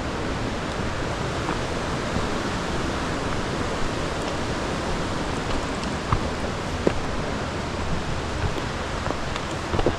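Steady rushing of a mountain creek, with a few faint taps over it.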